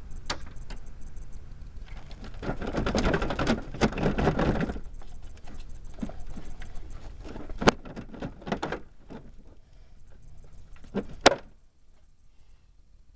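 Metal hand tools and bolts clinking and scraping during work on a 1997 Ford Explorer's fender and firewall bolts: a few seconds of rattling and rubbing, then scattered clicks with two sharp metallic clinks.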